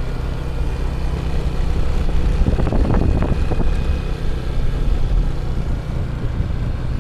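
A vehicle's engine and road noise heard while travelling along, a steady low hum under a rushing haze, with a louder rough patch about three seconds in.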